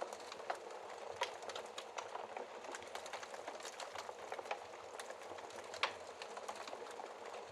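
Fireplace fire crackling: a steady soft hiss with many irregular small pops, two louder pops about a second in and near six seconds.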